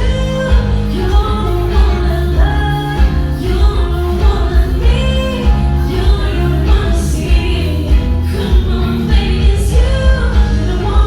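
Live band music with a singer over a steady beat and heavy bass, heard from behind the stage.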